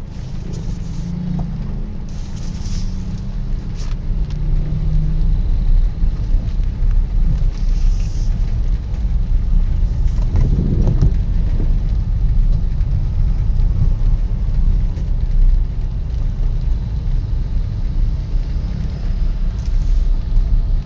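Steady low rumble of road traffic, with a vehicle passing about ten seconds in and brief hisses now and then.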